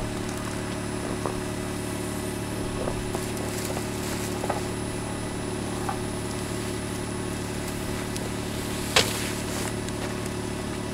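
Car engine idling steadily, with a few light knocks and one sharper knock about nine seconds in.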